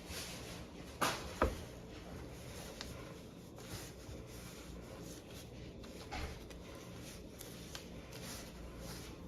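Quiet handling noises with two sharp clicks about a second in and a few fainter ticks later, over a low steady hum.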